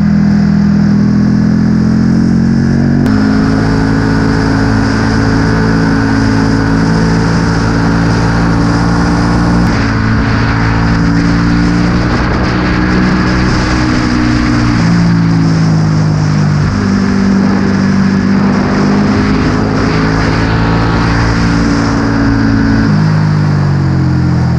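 Motorcycle engine running steadily under way, its pitch stepping abruptly about three seconds in and again near the end, with slow rises and falls in between.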